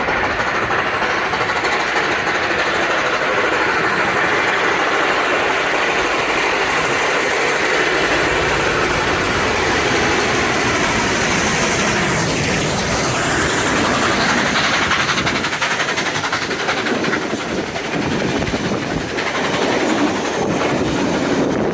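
Heritage steam train running along the track, a loud steady rail noise with no pauses.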